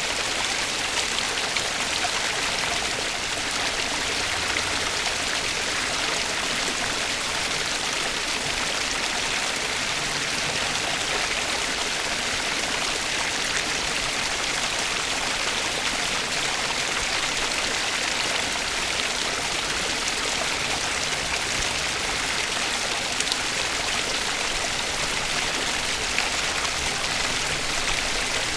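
Flowing water rushing steadily, like a stream, with an even hiss and no breaks or changes.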